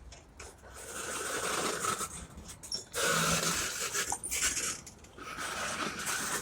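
Freight cars of a diesel freight train rolling past, wheels on the rails making a rushing noise that rises and falls in waves, loudest about three seconds in, with scattered clicks and clanks.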